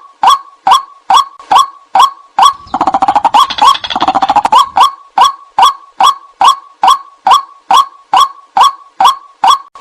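White-breasted waterhen calling: a sharp 'ruak' note repeated evenly about twice a second. About two and a half seconds in, a burst of faster, harsher chattering runs for about two seconds before the even calls resume.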